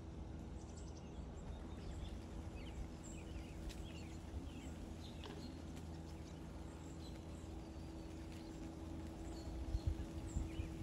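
Quiet outdoor ambience: faint, scattered small-bird chirps over a low wind rumble and a faint steady hum. Near the end, a few soft low thumps.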